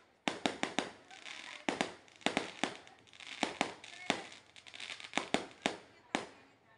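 Aerial fireworks bursting overhead: a rapid series of sharp bangs that come in quick clusters of several at a time.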